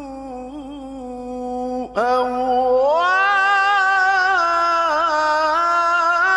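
A man reciting the Quran in the melodic mujawwad style, drawing out one vowel as a long held note with small ornaments. About two seconds in the voice breaks off briefly, then climbs to a higher note and holds it.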